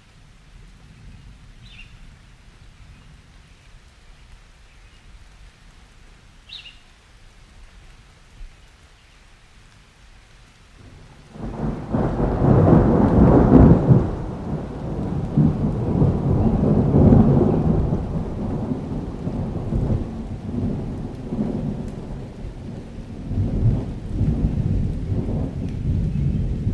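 Light steady rain with a few brief bird chirps, then about eleven seconds in a long peal of thunder breaks in and rumbles on, loudest in its first couple of seconds.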